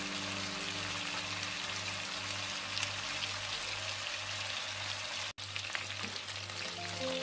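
Chicken pieces sizzling in a soy-sauce glaze in a nonstick pan: a steady crackling hiss, with a low hum pulsing underneath. The sound cuts out for an instant about five seconds in.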